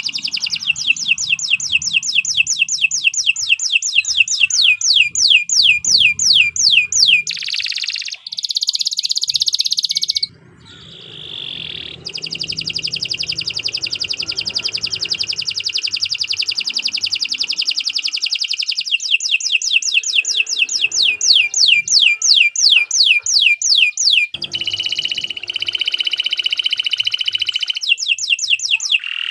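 Domestic canary singing a long continuous song: long runs of fast, evenly repeated down-slurred notes alternating with buzzy rolled phrases, with a brief drop about ten seconds in.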